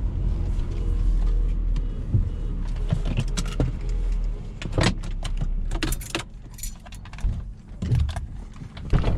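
Low rumble of a car heard from inside the cabin, fading about halfway through, with a string of sharp clicks and jangling rattles from small objects being handled.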